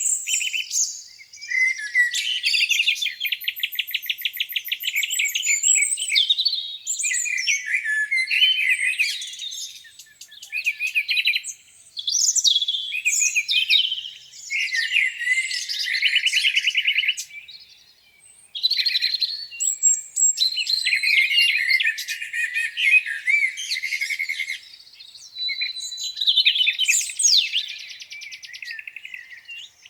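Several songbirds singing at once, their songs overlapping: fast trills and whistled phrases that rise and fall. There are brief lulls about 10 and 18 seconds in.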